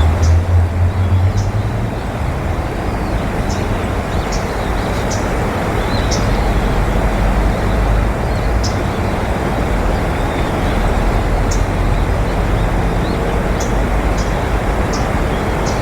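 Steady rumble of road traffic, with short high bird chirps at irregular intervals.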